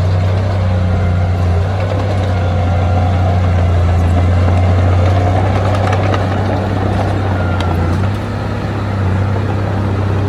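Diesel engine of heavy earthmoving equipment running with a steady low drone, easing off briefly about eight seconds in.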